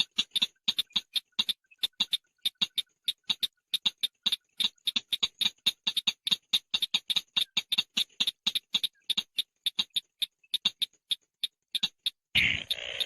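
Chàng nghịch bird calling: a fast run of short, sharp chips, about five or six a second with brief pauses, then a harsher, raspy call near the end.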